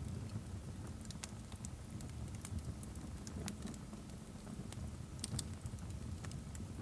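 Fireplace crackling: scattered sharp snaps and pops over a steady low rumble of the fire.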